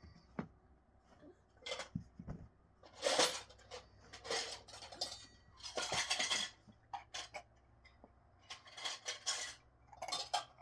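Dishes and utensils clattering and scraping in irregular bursts of clinks, about half a dozen times.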